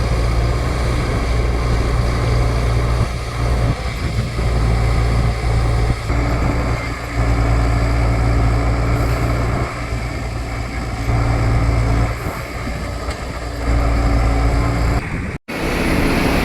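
Excavator's diesel engine running steadily, a low hum with a rough rumble that swells and eases every second or two. The sound drops out for an instant near the end.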